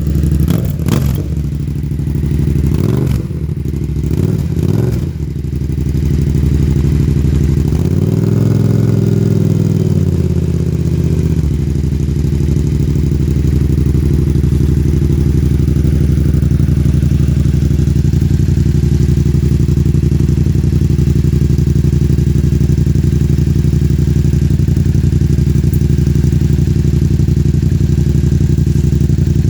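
Yamaha FZ-07's parallel-twin engine through an aftermarket Black Widow exhaust: a few quick throttle blips, one longer rev that rises and falls about eight seconds in, then steady idling.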